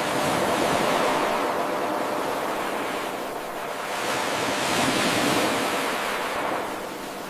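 Ocean waves surging and washing back in a looped 8-second recording. The surf swells loud at the start, ebbs about halfway, rises again and fades near the end.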